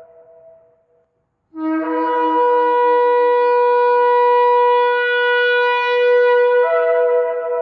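Shofar blasts: the end of one blast fades out, then after a short pause a new long blast starts on a brief low note, jumps up to a higher note and is held steady, rich in overtones, tailing off near the end.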